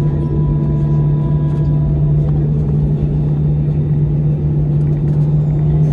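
Airbus A319 cabin noise in flight: a steady engine drone with a low rumble of airflow underneath. Some fainter higher tones drop away about two seconds in.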